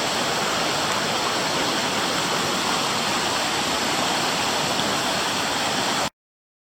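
Fast floodwater rushing through a deep gully, a steady, even rush that cuts off suddenly about six seconds in.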